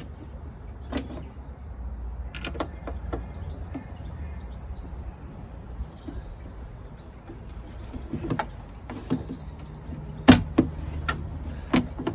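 Irregular clicks and knocks of a car door lock mechanism and its parts being handled and fitted inside a car door. A sharp knock about ten seconds in is the loudest, and a few more follow near the end, over a low steady rumble.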